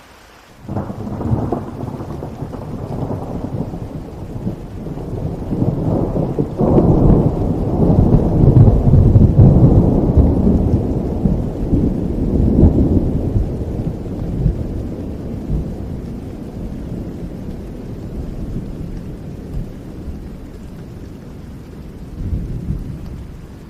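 Thunder rolling over steady rain: a sudden crack under a second in, then a deep rumble that builds to its loudest around nine seconds and slowly dies away, with a smaller rumble near the end.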